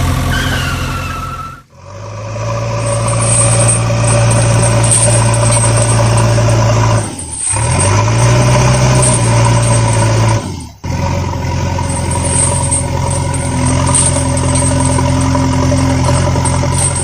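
Vehicle engine running steadily, which cuts off abruptly three times (about two seconds in, around seven seconds and near eleven seconds) and starts again each time.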